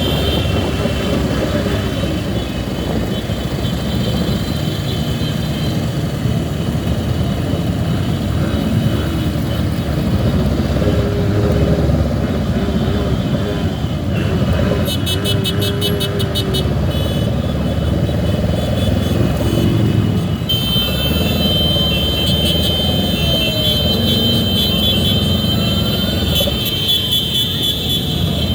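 Motorcycle under way in heavy traffic among many other vehicles. Engine notes rise and fall over a steady low rush.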